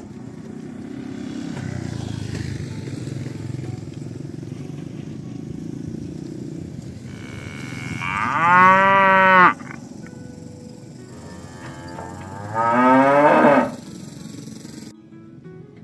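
Cattle mooing: two loud calls, the first about eight seconds in and lasting about a second and a half, the second about three seconds later and a little shorter.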